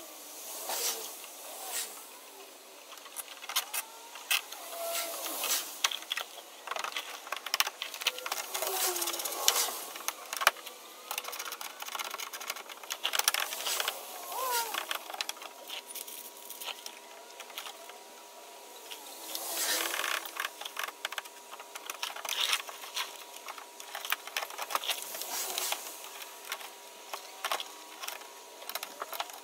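Irregular clicking and rattling of hands working the car's plastic engine undershield with zip ties, the ties ratcheting as they are pulled tight.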